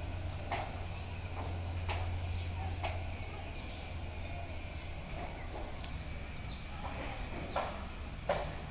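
Birds chirping now and then, short sharp calls that drop in pitch, over a steady low hum.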